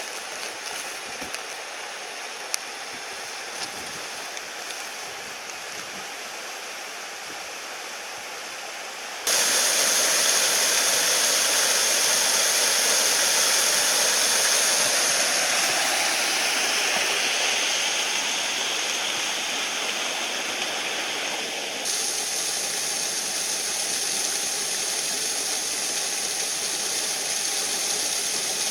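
Mountain stream water rushing over rocks, a steady hiss of flowing water. It jumps abruptly louder about nine seconds in and drops a little around twenty-two seconds.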